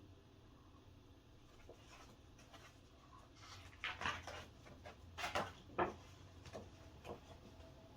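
Paper and packaging being handled during an unboxing: a short run of rustles and small clicks about four to six seconds in, over a faint low hum.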